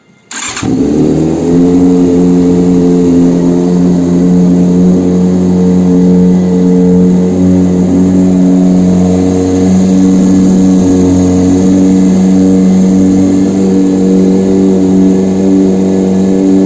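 An engine on a test run starts about half a second in, its revs rising briefly as it catches, then settles into a loud, steady idle.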